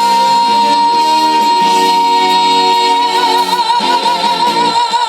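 A female trot singer holds one long high note over a live backing band's chords, first steady and then with a wide vibrato from about three seconds in, closing the song.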